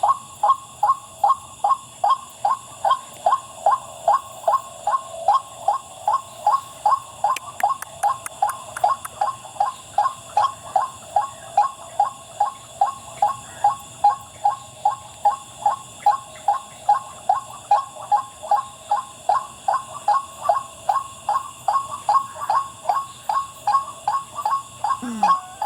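White-breasted waterhen's monotonous 'wak-wak' call, repeated evenly at about three notes a second without a break.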